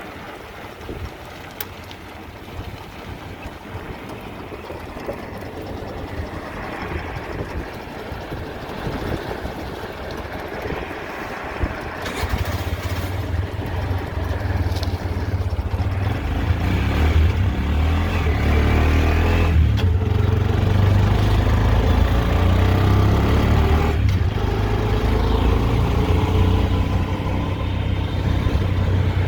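A vehicle's engine running and pulling away, getting louder about halfway through, with a heavy low rumble. Its pitch rises in steps that break off and start again twice, like gear changes.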